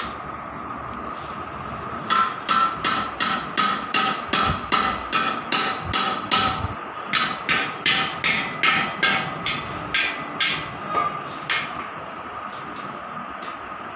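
Hammer blows struck in a steady run, about three a second for some nine seconds, then stopping, over a faint steady hum with a high ringing note.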